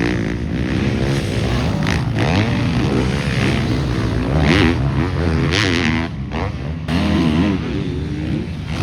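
Several motocross bikes running on the track, engines revving up and down through the gears, their notes rising and falling and overlapping.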